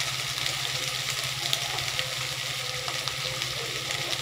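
Cut flat beans (sem) sizzling in hot oil in a kadai: a steady frying hiss with scattered small crackles.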